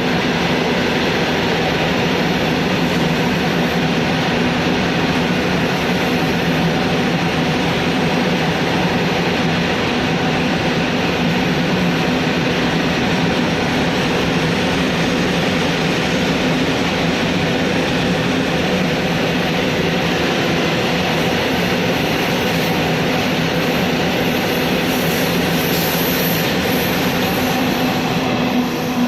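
Train running: a steady, unbroken drone with a constant low hum, without change for the whole stretch.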